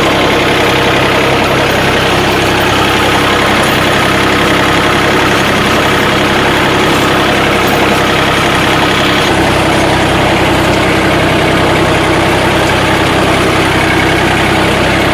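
Compact tractor's diesel engine running steadily under load while it pulls a rotavator through heavy green-manure growth. Its note shifts slightly about nine seconds in.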